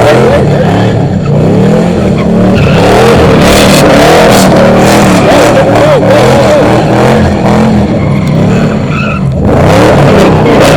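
A car at a street takeover spinning its tires: the engine revs up and down and the tires squeal, loud and continuous, with a brief lull near the end.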